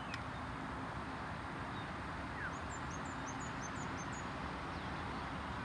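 Steady outdoor background noise, with a small bird giving a quick run of high chirps about halfway through.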